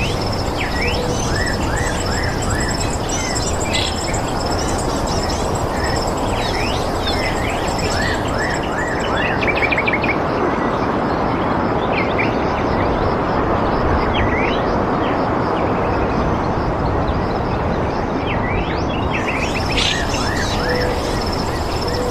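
Several birds chirping and calling in short, quick rising and falling notes over a steady rushing background noise.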